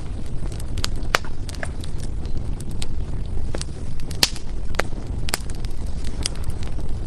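Firewood burning in a fireplace: irregular sharp crackles and pops, a few louder snaps about a second in and around four and five seconds in, over a steady low rumble of the flames.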